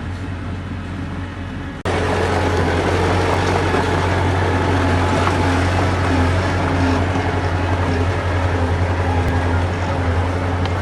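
Heavy diesel earthmoving machinery running steadily with a constant low drone. It jumps abruptly louder about two seconds in and holds there.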